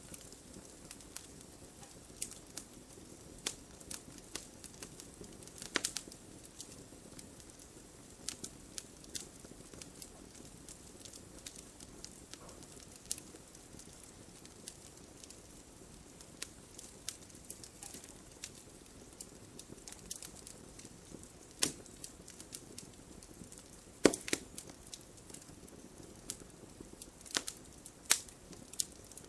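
Wood campfire burning with a low steady hiss and irregular crackles and pops, a few sharper pops standing out, the loudest about three-quarters of the way in.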